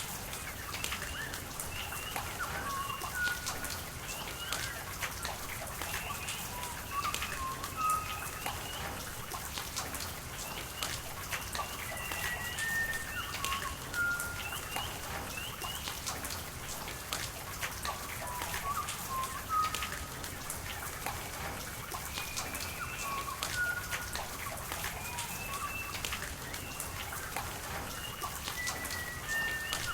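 Steady rain, with many close raindrops ticking sharply, and birds calling all through in short chirping notes.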